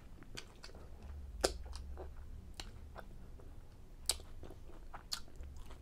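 Close-up mouth sounds of chewing a soft chicken fajita in a tortilla: irregular small wet clicks and smacks, the sharpest about one and a half seconds in and again about four seconds in.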